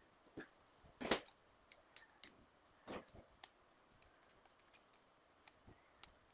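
Eating sounds: irregular light clicks and taps, a dozen or so, the loudest about a second in and again near three seconds.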